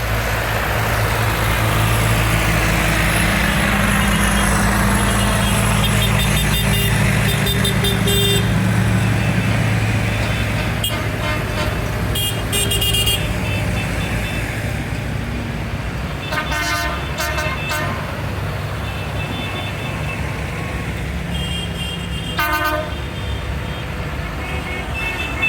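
Tractor engines running steadily as the vehicles pass, with short horn toots a few times in the second half.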